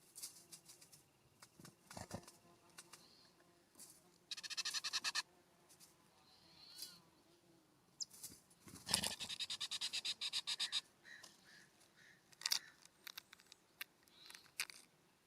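Wild birds calling at a feeder: two fast, dry rattling call series, the second longer, with scattered short calls and sharp clicks between them.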